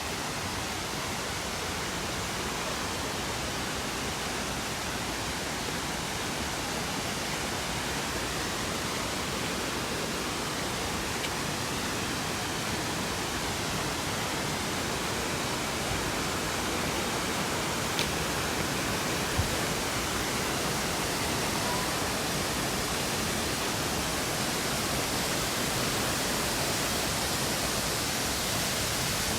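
Steady rushing of a large waterfall, Minoo Falls, crashing into its pool, with two faint clicks about two-thirds of the way through.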